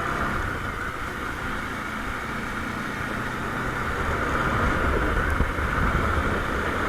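Motorcycle engine running while the bike is ridden along, a steady drone that grows a little louder partway through.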